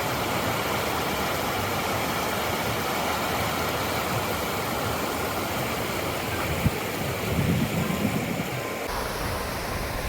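Steady rush of water pouring over the Sheboygan waterfall, with a sharp tap about two-thirds of the way in and an abrupt change in tone near the end.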